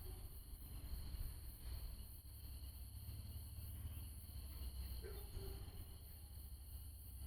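Faint, steady chorus of night insects, crickets among them, with a constant high-pitched trill, over a low rumble.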